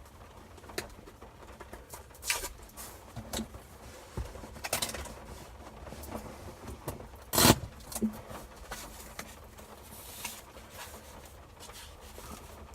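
Handling noise from unboxing: scattered brief rustles and clicks, with one louder knock or rustle about seven and a half seconds in.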